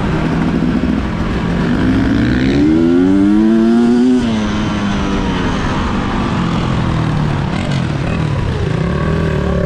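Enduro dirt bike engine running under throttle. It revs up from about two seconds in to a peak near four seconds, drops off sharply as the throttle closes, then runs on steadily.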